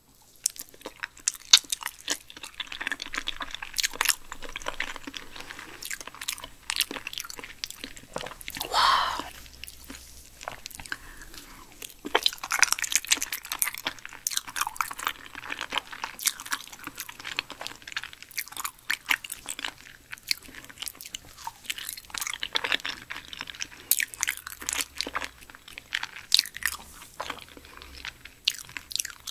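Close-miked chewing and mouth sounds of a person eating cooked Pacific spiny lumpsucker liver: many short clicks and smacks, with one longer sound about nine seconds in.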